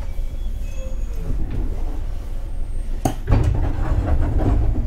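JR 211 series electric train heard from inside: a steady low rumble, with one sharp clunk about three seconds in, after which the rumble grows louder.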